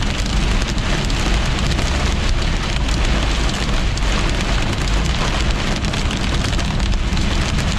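Heavy rain beating on a moving car's roof and windshield, a dense patter of countless small hits, heard from inside the cabin over a steady low road rumble.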